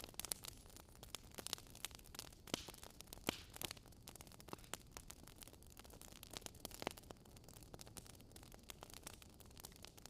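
Wood fire crackling faintly: irregular sharp pops and snaps over a soft steady hiss.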